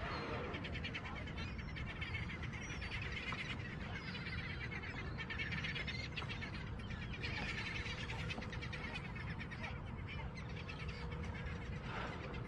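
Birds calling in repeated chattering bouts over a steady low rumble of wind and water.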